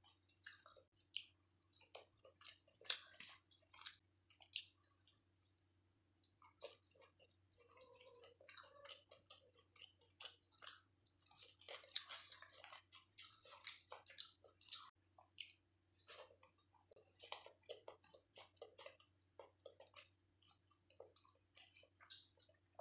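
Close-miked chewing of chicken biryani: wet, irregular mouth smacks and clicks as rice and chicken are chewed.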